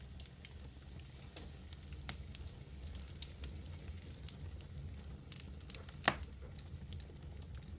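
Medium wood fire burning with a steady low roar and scattered crackles, and one loud pop about six seconds in.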